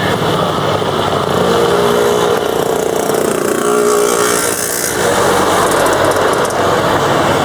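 Jet engines of a landing Airbus A330-300, running loud and steady, with a pitched whine that shifts in pitch through the middle as the airliner passes.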